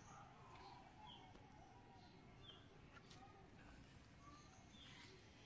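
Near silence, with a faint short bird chirp repeating about every second and a half.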